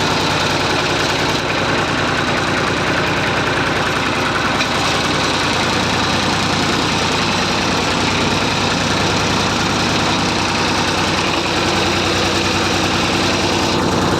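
Massey Ferguson 35 tractor engine running steadily, with a fine, even firing pulse.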